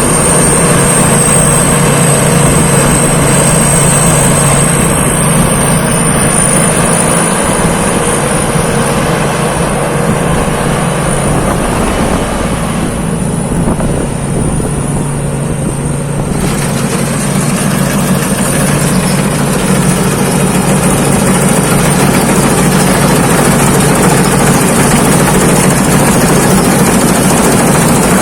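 Thai Seng Yont rice combine harvester running steadily while harvesting: a continuous engine drone with a thin high whine above it. The higher sounds drop away for a few seconds about halfway through.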